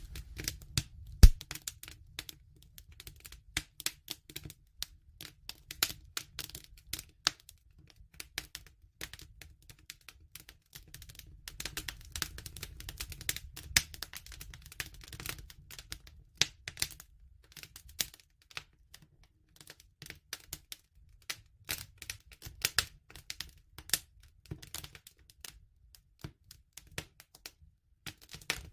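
Bonfire crackling: irregular pops and snaps over a steady low rumble, with one sharp, loud pop about a second in.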